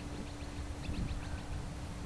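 Steady distant hum of an electric RC plane's motor and propeller in flight, with a gusty rumble of wind on the microphone. Around the middle comes a quick run of faint high ticks.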